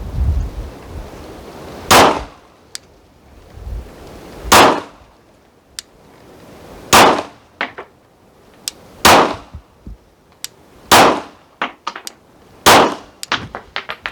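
Pistol fired slowly in a test string while zeroing a red-dot sight: six loud shots about two seconds apart, with fainter sharp cracks in between.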